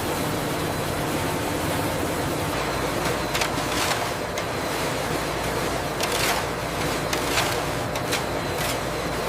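Production-line machinery running steadily, with a handful of short hissing strokes in the second half.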